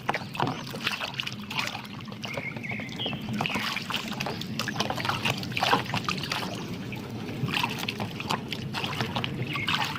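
Water splashing and trickling with irregular small knocks and clicks as a muddy plastic toy is washed by hand.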